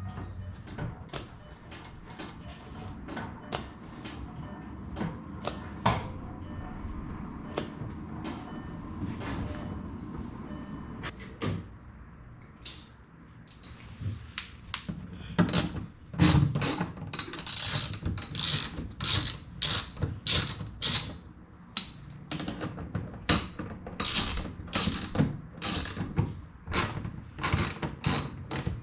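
Hand ratchet wrench clicking in short back-and-forth strokes, the runs of clicks faster and louder in the second half. Earlier, scattered lighter clicks and knocks of tool work on the car.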